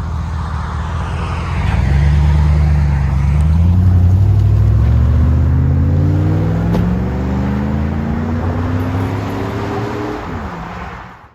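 Chevy Suburban's 5.3-litre V8 accelerating through a MagnaFlow Magnapack muffler, the deep exhaust note climbing steadily in pitch for several seconds before it fades and cuts off.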